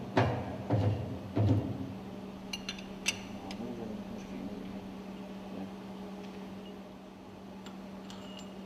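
Metal tools and pump parts being handled: three dull knocks in the first second and a half, then a few light metallic clinks, over a steady low hum.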